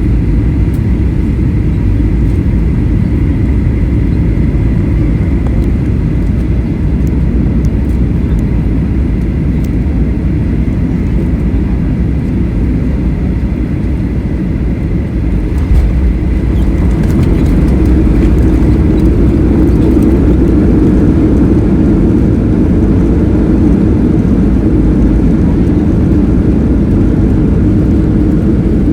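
Jet airliner cabin noise: a steady rumble of engines and airflow. About sixteen seconds in there is a brief bump, and after it the rumble grows louder.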